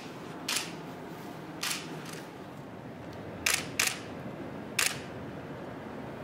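Camera shutter firing five times at uneven intervals, single sharp clicks, two of them in quick succession in the middle, over steady room noise.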